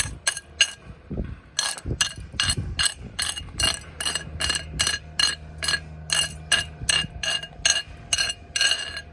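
Steel chipping hammer striking a fresh arc weld to knock off the slag: quick, even, ringing metallic taps, about three to four a second, exposing the finished bead.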